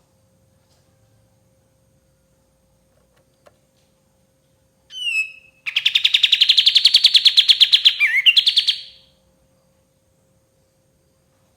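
White-shouldered triller (kapas tembak) singing: a short down-slurred note about five seconds in, then a fast rattling trill of about ten notes a second that lasts some three seconds and ends in a buzzy slur. A faint steady hum runs underneath.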